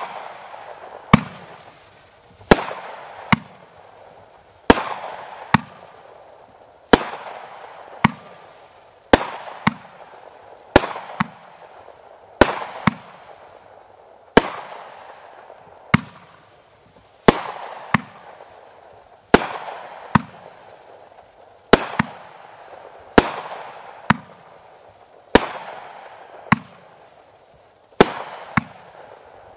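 World Class Fireworks 'America's Pastime' firework cake firing shot after shot, about one a second. Each shot is a sharp bang followed by a fading hiss of the bursting stars.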